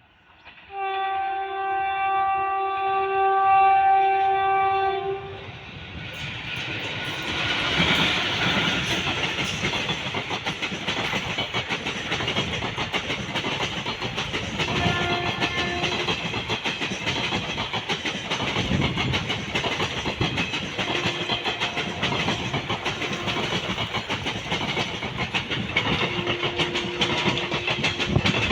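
Locomotive horn sounding one long steady blast of about four seconds, then a train passing close with a continuous rumble and wheels clattering over the rail joints. Shorter, fainter horn notes sound a few times during the pass.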